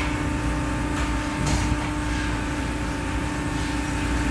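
Hydraulic press brake's pump and motor running steadily with a constant hum, a brief hiss about a second and a half in.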